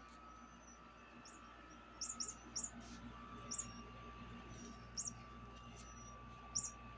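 Chirping toy bird giving six short, high chirps: three in quick succession about two seconds in, then single chirps spaced a second or more apart.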